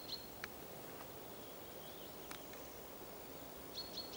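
Quiet spring forest ambience with a small bird giving a short, high, even-pitched call twice, at the start and again near the end, and a few faint ticks in between.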